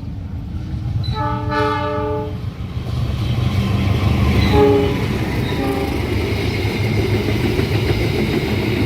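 Train locomotive horn sounding one long blast about a second in, then two short toots, as the train nears. A loud rumble with wheel clatter builds and carries on as the train passes.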